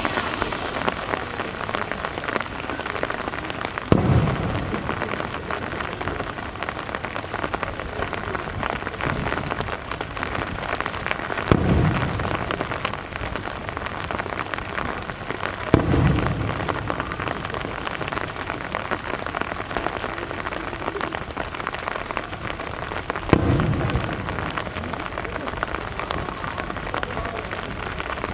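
Steady rain falling, with four deep booms of firework shells bursting overhead, spaced several seconds apart, each fading out over about a second.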